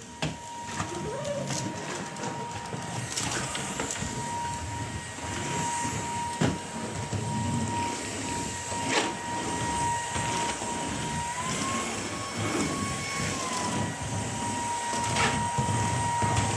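Vacuum cleaner running with a steady high whine. The whine rises in pitch for a couple of seconds past the middle, then drops back. Sharp knocks come now and then over it.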